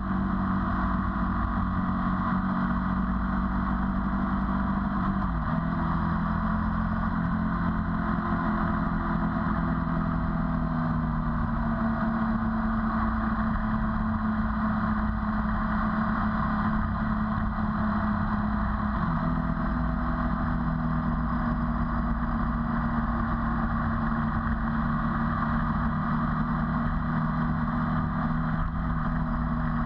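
Ducati 848's L-twin engine running steadily while the motorcycle is ridden along, under a constant rush of wind and road noise. The engine note drops in pitch about five seconds in and steps back up a little past the middle.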